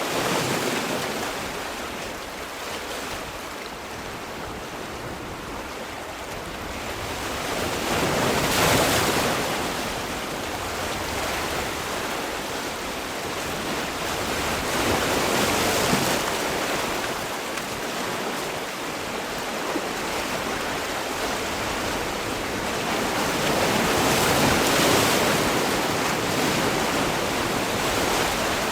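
Sea waves: a continuous rush of surf that swells into three louder breaking waves, about seven to nine seconds apart.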